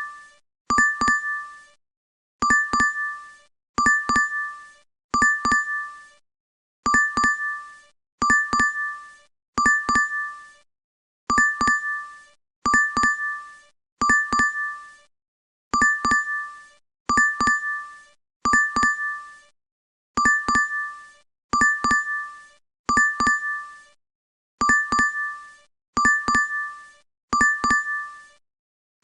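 DoorDash app order-alert chime playing on a loop: pairs of bright bell-like dings, each dying away quickly, a pair about every one and a half seconds.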